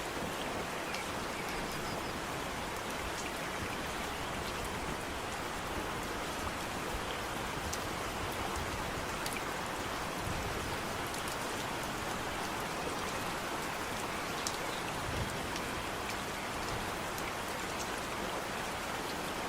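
Steady rain falling, a continuous even hiss with many scattered individual drops ticking close by.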